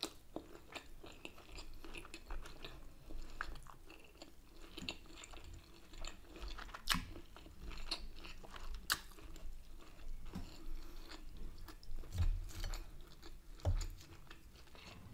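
A person chewing food close to the microphone, with crunching and many short sharp clicks of the mouth and teeth throughout.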